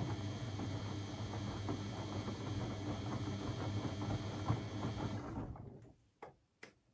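Beko washing machine running with a steady low hum and fine rattling, which dies away about five and a half seconds in, followed by two short clicks.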